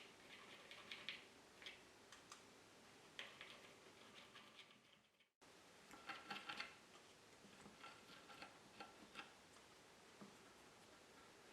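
Near silence with faint, irregular small clicks and ticks in scattered clusters. The sound drops out completely for a moment about five seconds in.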